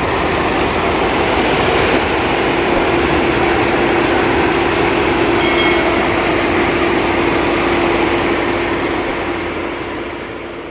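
A vehicle engine idling steadily, with an even rumble and one steady hum, fading out near the end.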